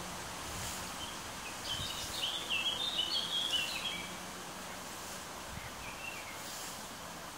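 A songbird singing a quick, warbling run of chirps for about two seconds, then a shorter phrase a little later, over steady outdoor background noise.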